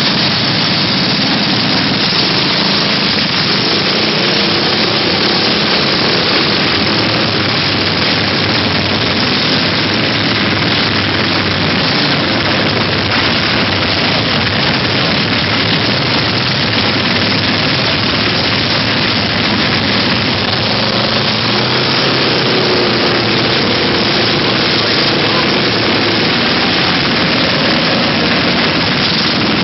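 Small mini-bike engines running, a steady dense roar with a faint wavering engine pitch in the second half.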